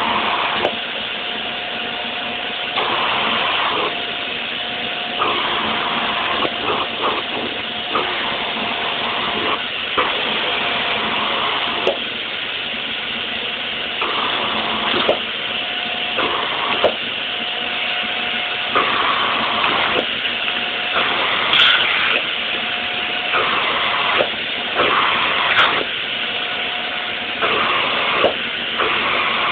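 Hoover vacuum cleaner running steadily with a constant motor whine, its rushing suction sound swelling and dropping every few seconds as it is moved about. Short knocks come now and then throughout.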